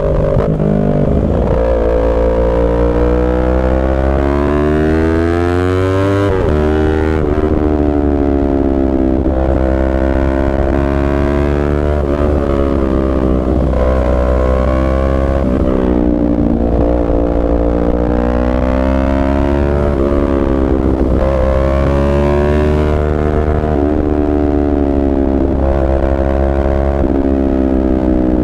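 Yamaha R3's parallel-twin engine pulling hard, its pitch climbing and then dropping sharply again and again as the bike accelerates and shifts up through the gears.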